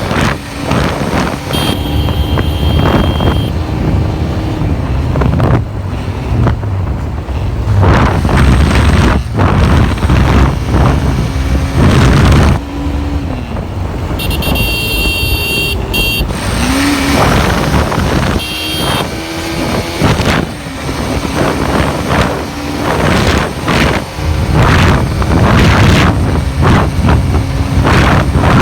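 Bajaj Pulsar NS200 motorcycle's single-cylinder engine running while riding, loud and uneven, with one brief rise in pitch partway through. Short high-pitched tones sound three times.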